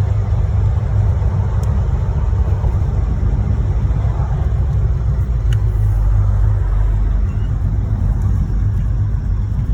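355 small-block Chevy V8 of a car under way, a steady low drone heard from inside the cabin. The engine has a bottom-end rod knock, which the owner hears when driving.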